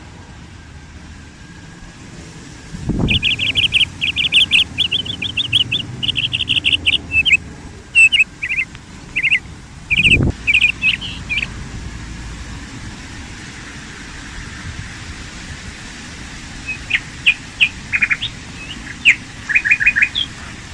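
A small bird chirping in quick runs of short, high notes, a long spell in the first half and another near the end, over a steady low background noise. Two brief low thumps fall about three seconds and ten seconds in.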